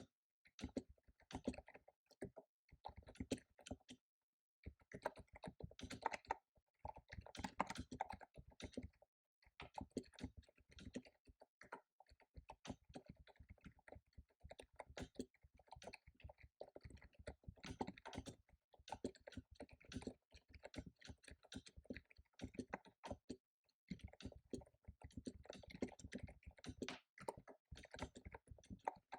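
Computer keyboard typed on fast: runs of rapid keystroke clicks broken by brief pauses.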